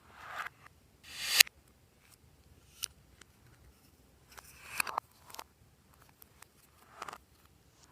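Glossy slime squeezed and pulled by hand: wet squelches that swell and end in sharp air-bubble pops, about three times, with the loudest pop about a second and a half in, and small clicks between.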